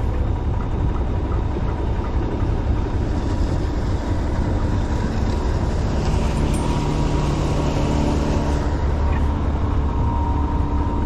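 Yacht's inboard engine running steadily as the boat motors slowly. About halfway through, a steady hum joins it.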